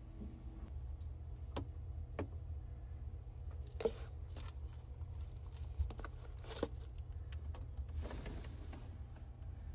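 Steady low rumble of a 285 series sleeper train heard from inside a compartment, overlaid with handling noises: two light clicks, then the crinkle of a plastic-wrapped cup lifted out of its holder, and a longer rustle near the end.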